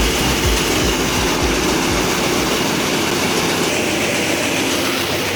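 Combine harvester running loudly and steadily while it unloads threshed wheat grain, with low knocks in the first couple of seconds.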